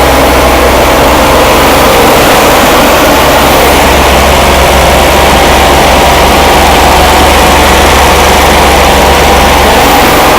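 Rebuilt Corvair 80 hp air-cooled flat-six engine running steadily on its first start after assembly from used parts.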